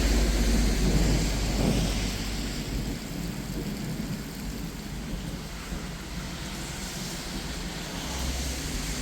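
Steady rain during a thunderstorm, with a low rumble of thunder dying away over the first two or three seconds and another low rumble starting near the end.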